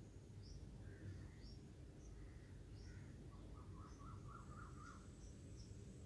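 Near silence: faint room hum with small bird chirps in the background, short high chirps recurring every second or so and a brief run of lower chirps near the middle.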